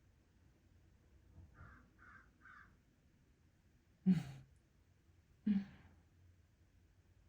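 Three faint quick bird calls in a row, then two loud short harsh sounds about a second and a half apart.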